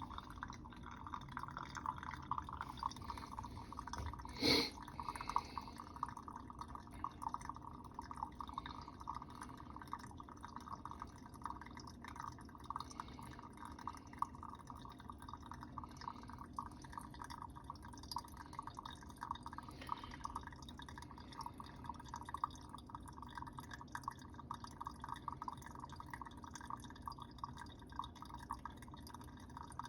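Brewed coffee dripping steadily through a metal pour-over filter into a Chemex as the water drains through the grounds, a fast run of small drips. A single clink about four and a half seconds in.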